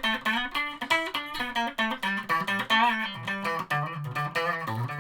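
Electric guitar on a custom 105-sound Strat, playing a quick run of picked single notes through an amp on an out-of-phase, parallel pickup combination (pink switch position 3, white switch position 5).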